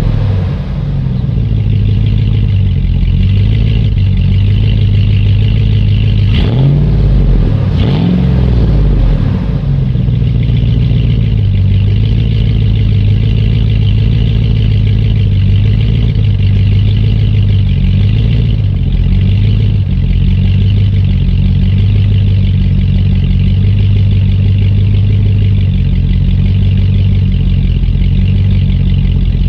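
2009 GMC Sierra 2500HD's 6.0L LY6 V8 idling through a Solo Performance Mach46 4-inch exhaust after a cold start. The engine speed rises and falls briefly about six to nine seconds in, then holds a steady idle.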